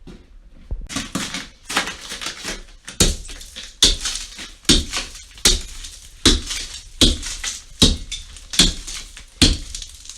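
Thick ice being chipped and broken with a hand tool. There are some irregular crunches at first, then from about three seconds in a steady run of sharp crunching strikes, a little more than one a second, each followed by a brief rattle of loose ice.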